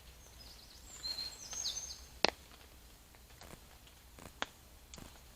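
A small songbird calling in a quick run of short, high whistled notes, some sliding down, followed by a few isolated sharp clicks, the loudest about two seconds in.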